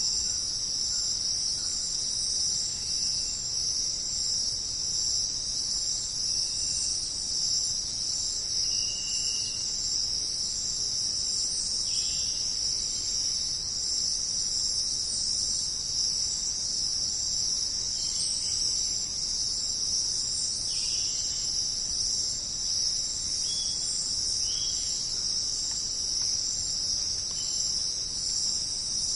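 Dense, steady high-pitched chorus of jungle insects such as crickets, with a few short chirps from other animals scattered through it.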